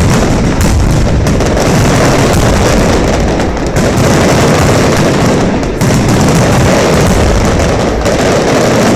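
Fireworks bursting in a dense, continuous barrage, the bangs running together without a break.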